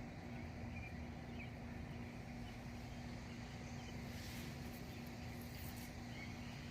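Outdoor garden ambience: a steady low rumble and hum with a few faint bird chirps, and a brief crackling hiss about four seconds in.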